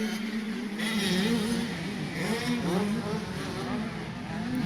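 Motocross dirt bike engines revving, their pitch rising and falling as the throttle opens and closes, with several bikes heard over one another.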